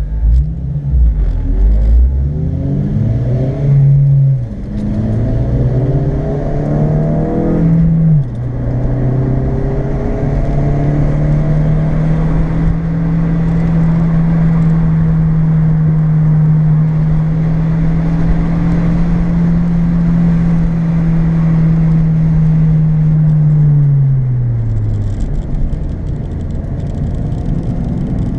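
Honda Civic Si's 2.0-litre four-cylinder engine heard from inside the cabin, accelerating through the gears. The revs rise and drop at upshifts about four and eight seconds in, then hold steady for a long stretch before falling off near the end, over steady tyre and road noise.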